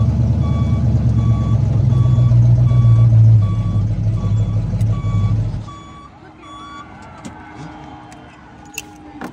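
Monster ride truck's engine running loud while its reversing alarm beeps about twice a second. The engine stops about five and a half seconds in, and the beeping ends about a second later.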